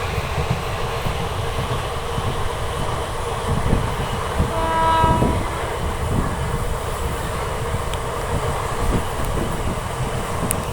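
Train running on the track with a steady rumble and rail clatter, and a short train horn blast about halfway through.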